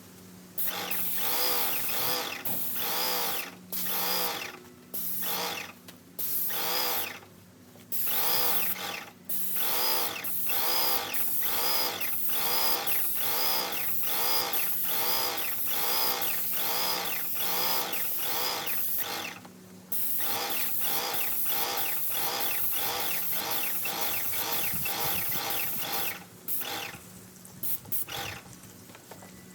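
Airless paint sprayer spraying in on-off bursts as the gun trigger is pulled and released, with a long run of several seconds in the middle. A steady hum runs underneath, and the spray pulses regularly about one and a half times a second.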